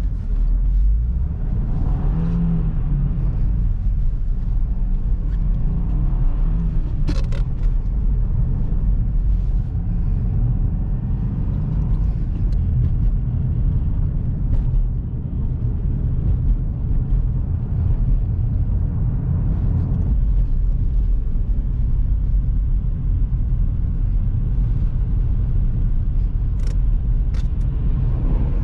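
Subaru WRX driving on a snowy road: a steady low rumble of engine and tyres, with the engine pitch shifting briefly about two seconds in. A few short sharp clicks stand out over it.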